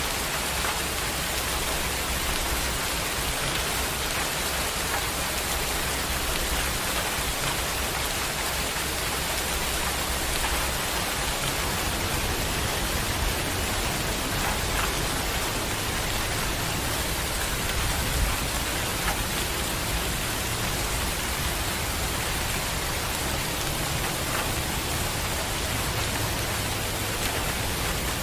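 Heavy rain falling steadily: a dense, even hiss of drops, with now and then a sharper drop tapping close by.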